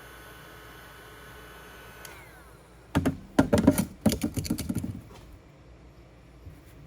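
Heat gun running with a steady whine, then switched off about two seconds in, its fan winding down. About a second later comes a quick, loud run of clicking and rattling, lasting roughly two seconds, as hard parts are handled.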